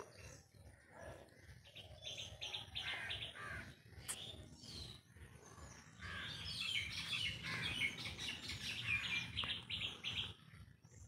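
Small birds twittering, a rapid run of short chirps that is busiest from about six to ten seconds in, over a faint low hum. A single light click comes about four seconds in.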